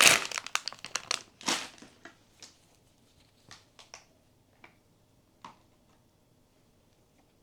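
Plastic wrapping from a blind-box figure crinkling and crackling for the first two seconds, followed by a few light separate clicks and taps that die away about halfway through.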